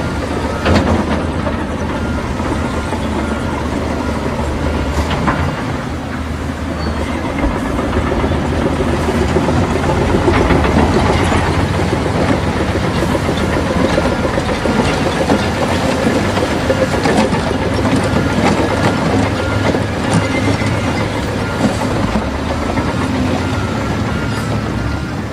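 Heavy tracked bulldozer working: its diesel engine runs steadily under a continuous clanking rattle from the steel tracks. An intermittent reversing alarm beeps at the start and again through the last few seconds.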